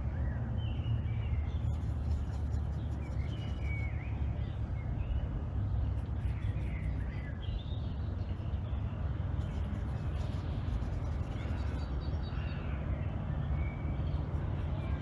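Outdoor ambience with small birds chirping in short calls again and again, over a steady low rumble.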